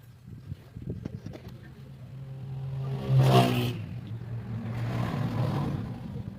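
Single-cylinder four-stroke motorcycle engine, a Honda CD70 converted to 100cc, running and revved. A sharp, loud rise about three seconds in is followed by a second, longer swell a little later.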